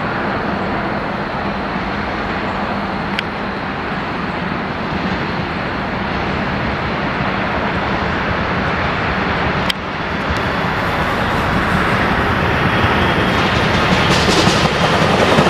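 Train rumbling on the tracks, a steady noise that grows louder near the end as it comes closer, with one sharp click about two-thirds of the way through.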